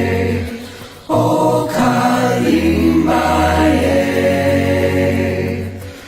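Choral chant: several voices holding long, sustained notes over a low drone. One phrase fades out and a new one enters about a second in, and it fades again near the end.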